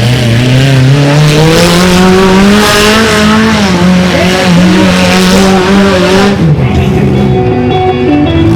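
Mini monster truck engine revving hard: it climbs in pitch over the first two seconds, holds high revs with the pitch wavering as the throttle works, then drops off sharply a little over six seconds in.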